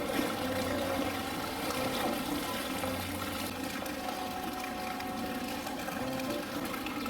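Steady rushing water, the continuous flow of water in the polar bear's pool enclosure.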